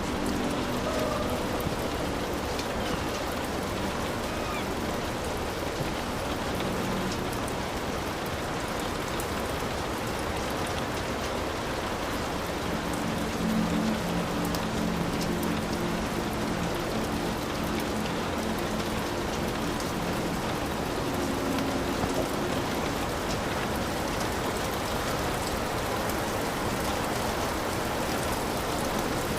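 Heavy rain falling steadily on a hut roof, a dense, even patter.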